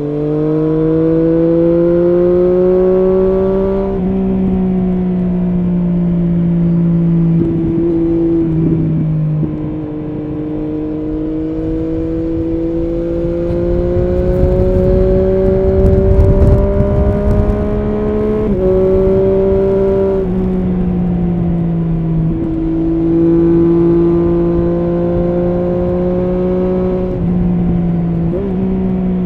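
Triumph Street Triple S inline three-cylinder engine through an SC Project SC1-R slip-on exhaust with its dB-killer fitted, pulling on the road. The engine note climbs slowly and breaks off in pitch several times at gear changes. There is a stretch of low wind rumble midway.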